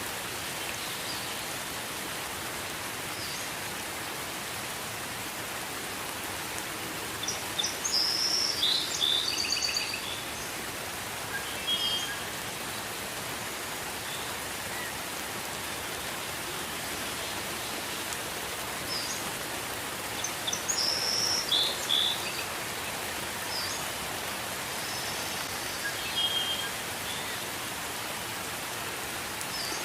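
Steady gentle rain, an even hiss throughout, with a bird chirping in short high bursts, loudest for a couple of seconds about a quarter of the way in and again about two-thirds through, with brief calls in between. The bird calls are the loudest sounds.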